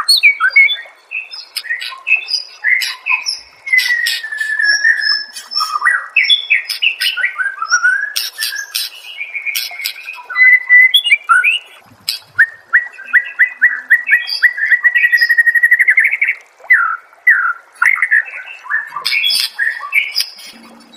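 White-rumped shama (murai batu) singing a varied song of sliding whistles, sharp chips and quick phrases, with a fast, even trill lasting about three seconds a little past the middle.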